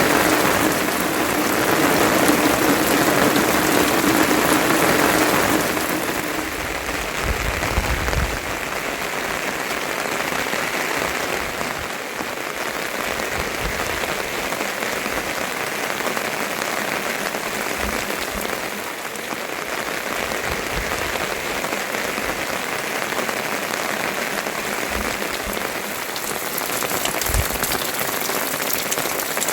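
Steady rain falling, heard as an even hiss. A lower, heavier rushing layer under it stops about six seconds in.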